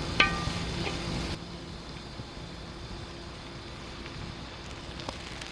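Food sizzling in a pan on a camp stove, with a single ringing clink of a metal utensil against the pan just after the start. About a second and a half in, the sizzle drops abruptly to a quieter steady hiss.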